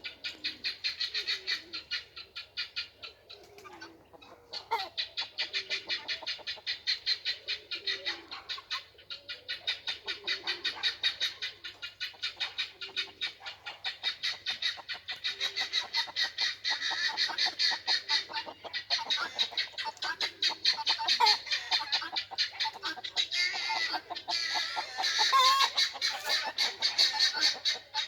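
A flock of guinea fowl and chickens calling together at roosting time: a continuous, rapid chatter of repeated harsh calls, several a second, with clucking beneath, dipping briefly about four seconds in.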